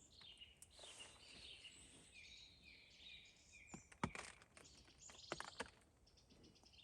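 Faint woodland birdsong: several small birds chirping and trilling high-pitched, with a few sharp clicks about four and five seconds in.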